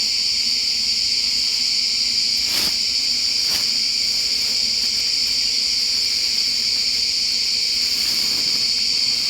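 A steady, high-pitched shrill of forest insects. Two faint knocks come about two and a half and three and a half seconds in.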